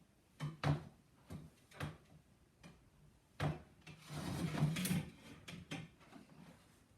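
A few sharp knocks and clatters of objects being handled, with a stretch of rubbing or scraping about four seconds in.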